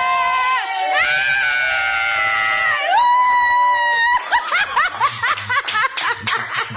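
A person's high-pitched voice holding long, steady squeals that jump between pitches, then breaking about four seconds in into a quick run of short rising yelps, roughly four a second. These are vocal hot-or-cold cues in a guessing game, used in place of words.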